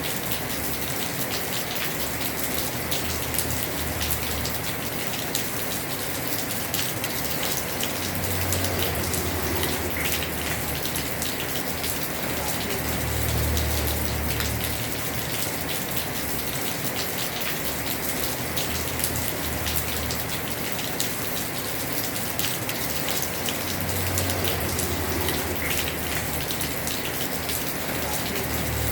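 Heavy rain falling on a house roof: a steady, dense hiss with individual drops ticking through it. A low rumble swells and fades every few seconds underneath.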